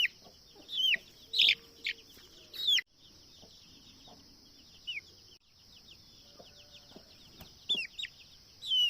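Chick peeping: short, high-pitched calls that fall in pitch, repeated irregularly, several close together in the first three seconds, one about five seconds in, and a few more near the end.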